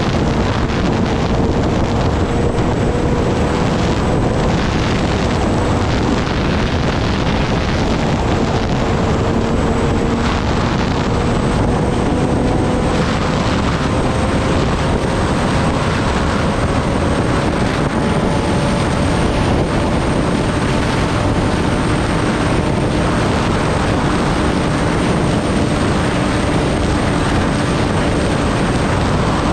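Kawasaki Ninja ZX-10R's inline-four engine running at a steady cruise under heavy wind rush, its pitch climbing slowly as the bike gathers speed.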